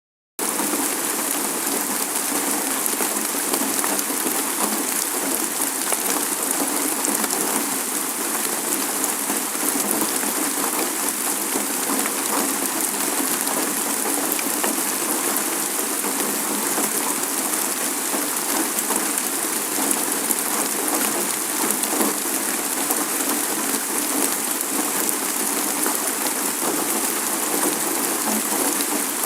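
Steady rainfall, a dense even hiss of drops with faint scattered individual drop ticks, unchanging in intensity.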